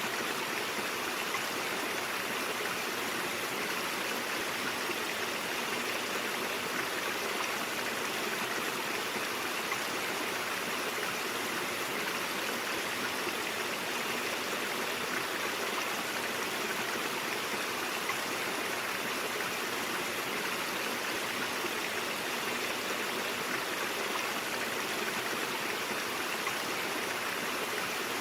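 Brook water flowing in a steady, unchanging rush.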